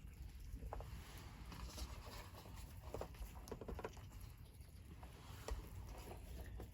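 Faint, irregular light tapping and pattering of chickens pecking and scratching.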